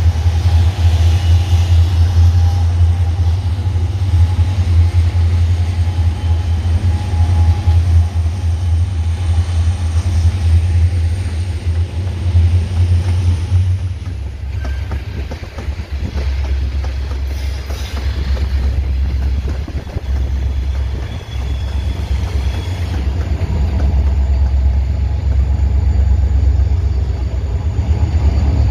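Diesel freight locomotives passing close by with a heavy low engine rumble. About halfway through, the engine sound gives way to open freight wagons rolling past with a clattering of wheels on rail. Near the end the low rumble returns as more diesel locomotives come by.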